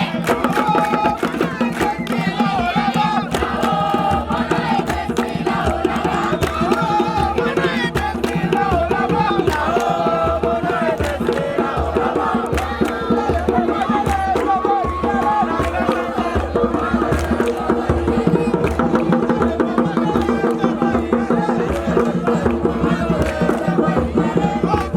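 A group singing a chant over a steady drum beat, with percussion strokes keeping a regular rhythm under the voices.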